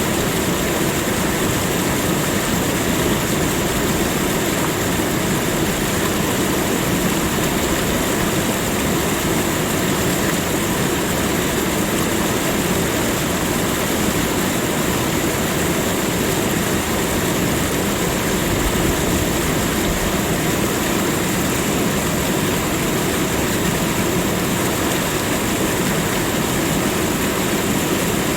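Steady, unbroken rushing of water at an even level.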